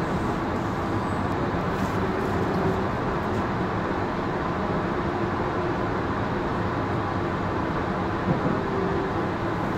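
Sydney Trains Tangara electric train running, heard from inside its guard's compartment: a steady rumble of wheels on rail with a faint steady hum over it.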